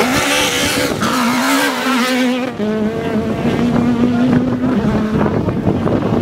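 Race car engine running hard at high, fairly steady revs, its pitch wavering slightly, with a short dip about two and a half seconds in.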